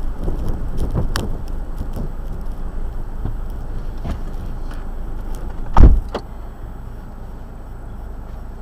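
Car running with a steady low rumble and several knocks, then one loud thump about six seconds in, after which the rumble is quieter.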